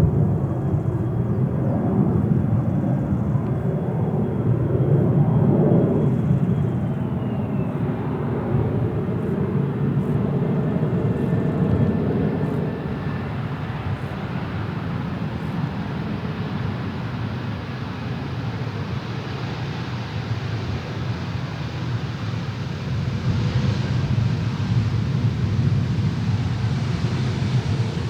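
Airbus A320neo jet airliner on landing approach, its engines making a steady rumble. A faint high engine whine drops in pitch about seven seconds in as the jet goes past, and the sound then eases off into a lower rumble.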